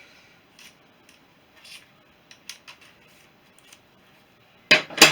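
Small metal parts and tools clinking and scraping in light, scattered ticks, then two loud metallic clanks in quick succession near the end.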